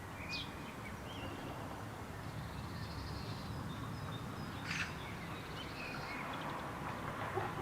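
Eurasian magpie giving a single harsh, rasping chack call about five seconds in, after a brief short call near the start. Faint small-bird chirps and a steady low background rumble run underneath.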